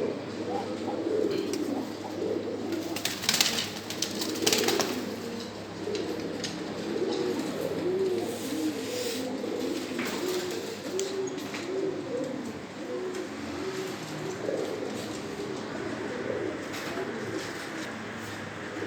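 Many caged domestic pigeons cooing at once, a continuous overlapping chorus of low rolling coos. Two brief noisy bursts sound about three and a half and four and a half seconds in.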